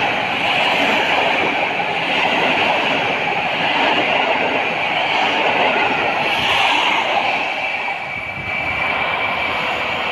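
Locomotive-hauled passenger coaches rolling past close by: a steady rush of wheel-on-rail noise that eases slightly near the end as the last coach goes by and the train moves away.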